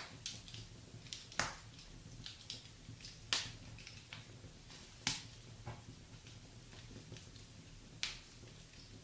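Wood fire crackling in a fireplace: irregular sharp pops and snaps, four of them louder than the rest, over a low steady rumble.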